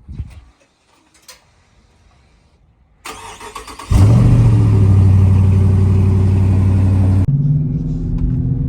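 Dodge Charger R/T's 5.7-litre HEMI V8 being started: a few faint clicks, the starter cranking for about a second, then the engine catching with a loud flare and holding a high idle before dropping to a lower, steady idle about three seconds later.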